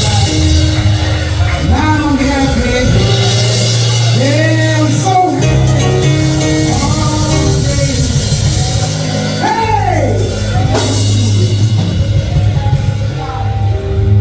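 Live church music: a band with bass, drums and cymbals playing loudly, with a voice or instrument gliding up and down in melodic runs over it. The music drops down sharply at the very end.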